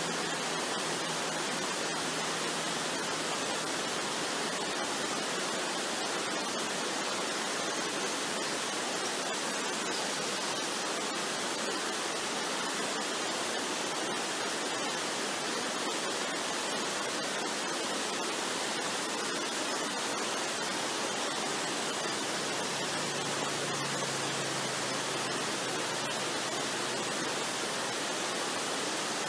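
Waterfall rushing, a steady, even hiss with no change, with a faint low tone near the start and again about two-thirds of the way through.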